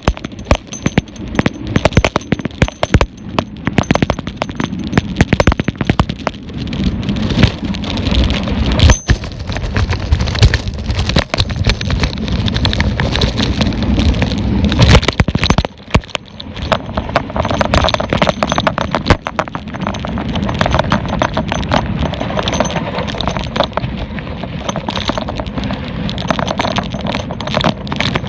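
Mountain bike clattering and rattling over rough ground: a dense, irregular run of sharp knocks and rattles over a low rumble.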